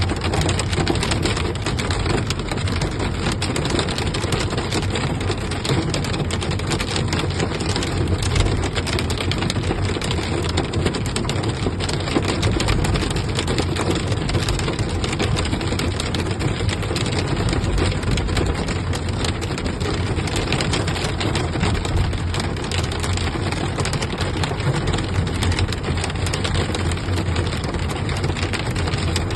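Hailstorm with heavy rain: a dense, steady patter of countless small impacts pelting down without let-up.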